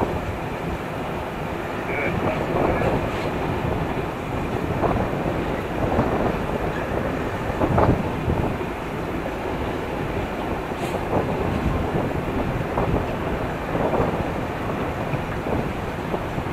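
Passenger train coach running along the track, heard from an open window: a steady rush of wind and wheel noise with occasional knocks from the wheels over the rails, the loudest about eight seconds in.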